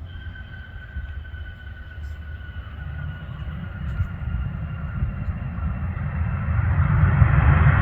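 Learjet's jet engines drawing nearer: a deep rumble that grows steadily louder, with a faint whine sliding slowly down in pitch and a rising rush of noise near the end.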